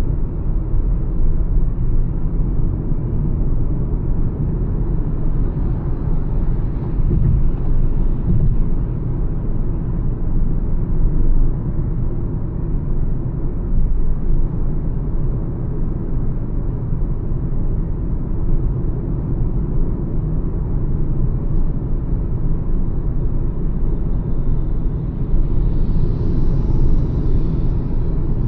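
Mahindra XUV 300 cruising at highway speed: a steady, loud low rumble of tyre and wind noise. A brief hiss swells and fades near the end.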